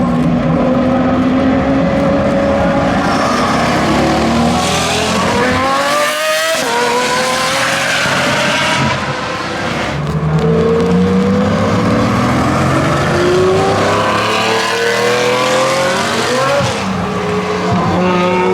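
V12 supercar engine accelerating hard through the gears. Its pitch climbs steadily, then drops suddenly at each of about three upshifts.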